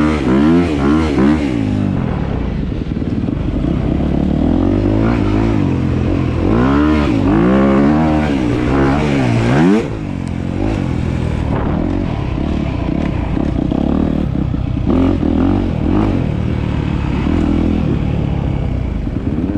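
Dirt bike engine running hard, its pitch rising and falling in repeated sweeps as it revs up and drops back, then about ten seconds in the revs fall away suddenly and it runs more steadily at lower speed.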